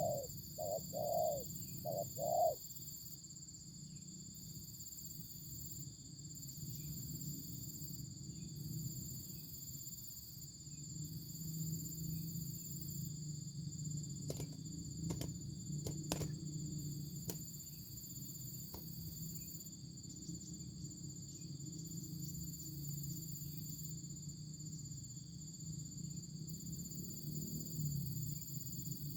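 Dove cooing: a quick series of about five short low coos in the first couple of seconds, then stopping. A steady high whine runs throughout, with a few sharp clicks about halfway.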